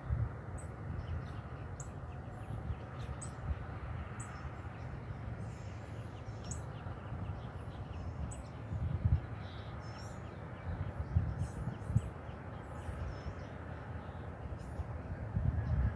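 Small birds chirping outdoors, short high calls repeating every second or so, over a steady low rumble with a few dull knocks.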